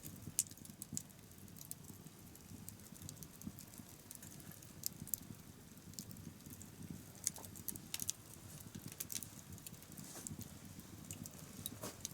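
Wood bonfire crackling: irregular sharp pops and snaps over a steady low rush of the burning fire.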